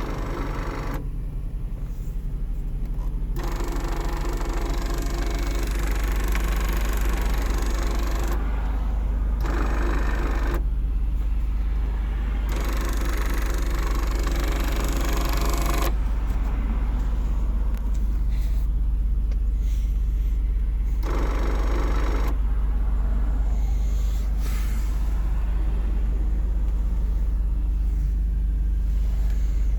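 Inside a 2007 Lexus GS350 with the car running: a steady low hum, with several stretches of a few seconds of higher whirring noise that switch on and off as the faulty sunroof is worked without moving.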